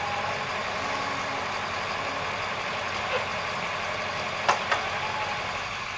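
Tow truck's engine idling steadily, with two sharp clicks about four and a half seconds in.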